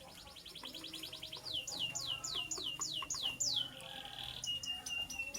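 A caged bird singing a varied song. It opens with a fast trill of about fifteen notes a second, then gives a run of about three clear downslurred whistles a second, each falling steeply. Near the end come a short buzzy note and a string of level repeated chips.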